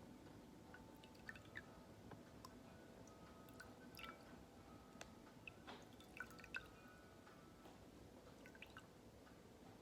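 Faint water drips and small wet clicks, scattered and irregular. Wind chimes ring faintly in the background, their tones hanging on for seconds.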